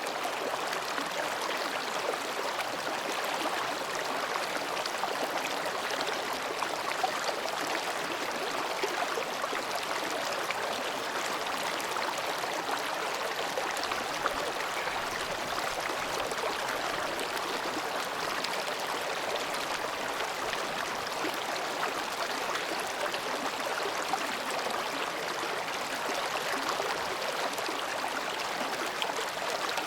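Mountain stream babbling between rocks: a steady, even rush of flowing water with small splashes and gurgles.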